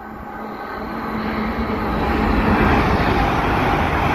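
Green-liveried express passenger train running through the station without stopping, a rising rush of wheel and air noise that swells over the first two seconds and stays loud as the coaches pass.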